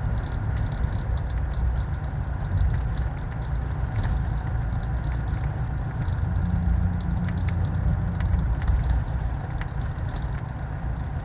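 Steady low rumble of a running vehicle, with light scattered clicks.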